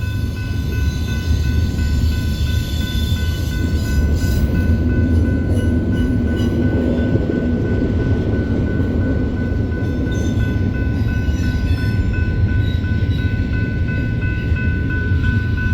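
Freight train of container cars rolling past: a steady low rumble of wheels on rail, with a thin, steady high tone running over it.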